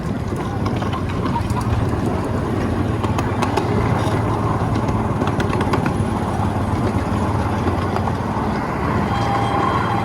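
Miniature ride-on train running along its track: a steady low hum and rumble with scattered sharp clicks throughout.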